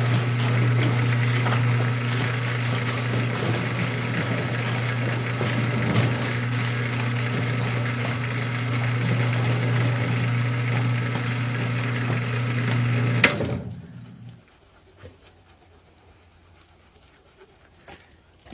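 A handheld electric power tool's motor, most likely used to buff polish into the diamond plate, running steadily with a constant hum. It is switched off with a click about 13 seconds in and spins down over about a second, leaving only faint background.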